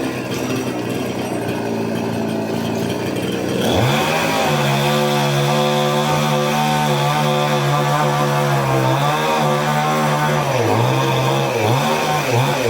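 Chainsaw cutting a palm tree: it revs up about a third of the way in and runs at a steady high speed. Near the end its pitch dips and climbs back several times.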